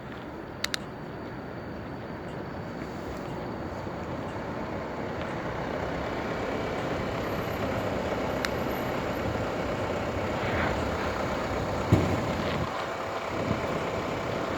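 Steady rushing road noise on a bicycle ride through city traffic, slowly growing louder, with a couple of sharp clicks about a second in and a knock near the end.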